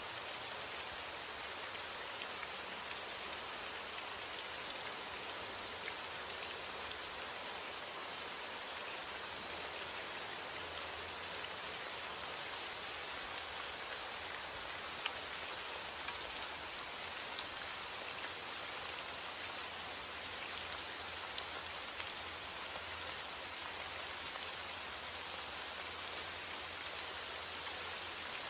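Steady heavy rain falling, an even hiss with scattered sharper drop hits.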